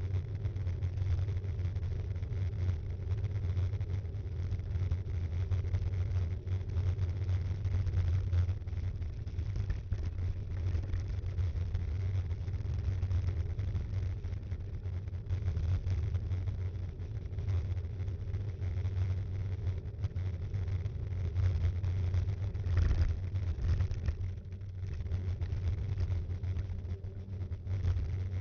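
Steady low rumble of wind and tyre-on-road noise picked up by an action camera mounted on a moving mountain bike, with a brief swell about three quarters of the way through.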